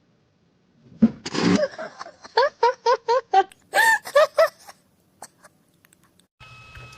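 A sudden loud noise, then a person laughing in a run of quick, high-pitched bursts.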